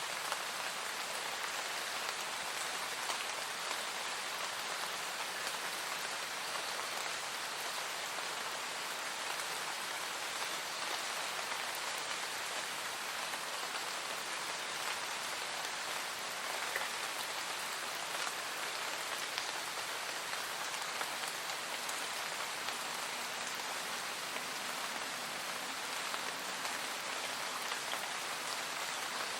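Steady rain falling, an even hiss of drops with fine scattered patter and no change in strength.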